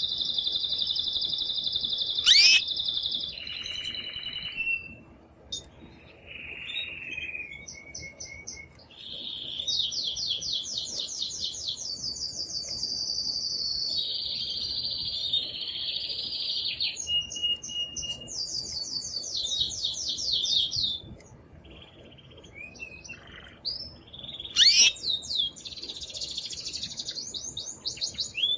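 Excited male canary in full song: phrase after phrase of fast trills and rolls of repeated high notes, broken by short pauses, with two sharp, loud notes, one early and one near the end.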